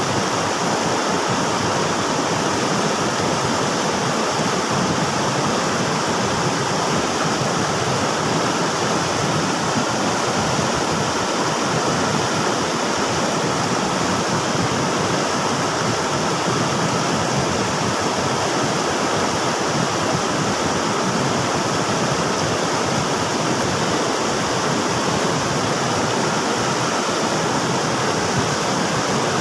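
River water rushing steadily, a constant full rush with no breaks or changes.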